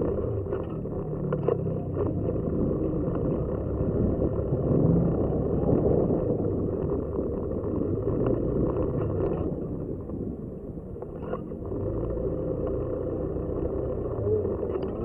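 Motorcycle running on the move, a steady low rumble that swells a little about five seconds in and eases briefly about ten seconds in.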